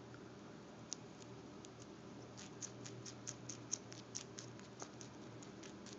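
Pet rabbit chewing cilantro: a faint run of small crisp clicks, about five a second, starting about two seconds in.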